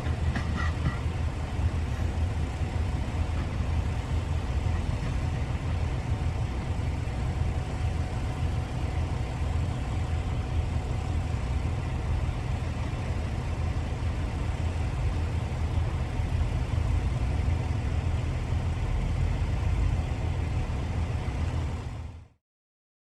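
KTR700-series diesel railcar engine running with a steady low rumble. The sound cuts off abruptly near the end.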